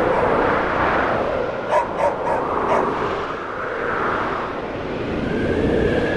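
Snowstorm wind blowing steadily outside, swelling and easing in gusts. A distant dog barks a few times in quick succession about two seconds in.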